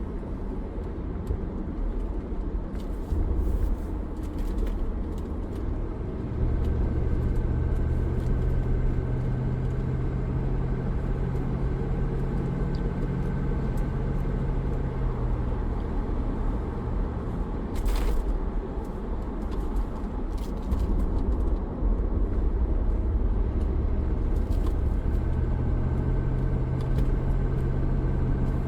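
Cabin noise of a 2004 Land Rover Discovery 2 on the move with the windows rolled up: steady road rumble under the V8 engine's drone. The engine note steps up about six seconds in, falls back around seventeen seconds, and rises again near the end, with a brief click about eighteen seconds in.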